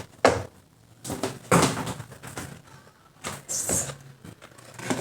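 Lemon rubbed on a fine grater to take off the yellow zest, heard as a handful of irregular scraping strokes with short pauses between them.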